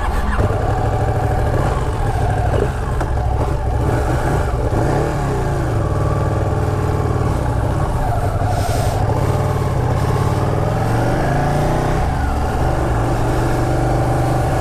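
Motorcycle engine running while riding, its pitch shifting up and down with throttle and gear changes, about four to six seconds in and again near twelve seconds.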